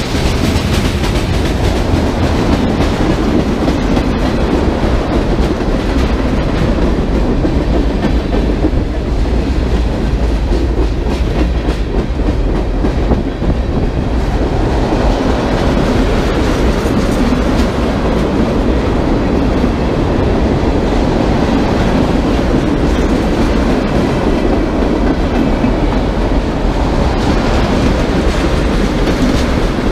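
Railcars of a passing train rolling by close to the track, a loud, steady rumble with the clatter of wheels on rail.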